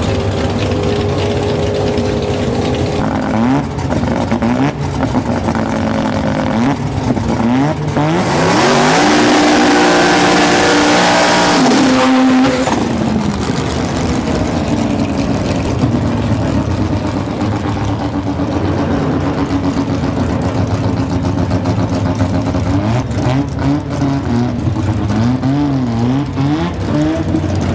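A V8 engine in a full-chassis Holden VL Calais drag car revving up and down in blips. About eight seconds in comes a loud four-second stretch at high revs, then it settles back to lower revs with more quick blips near the end.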